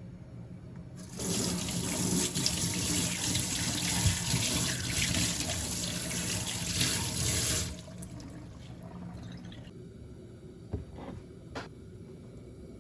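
Kitchen tap running into a sink, turned on about a second in and off after about seven seconds, followed by a few light knocks.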